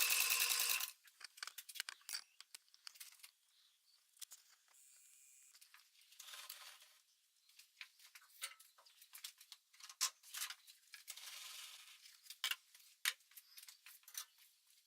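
A machine running stops about a second in. Then come scattered light metallic clinks, taps and brief scraping of small metal tools and parts being handled, with soft rustling twice.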